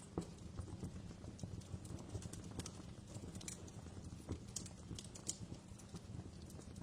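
Wood fire crackling: irregular pops and snaps over a low rumble.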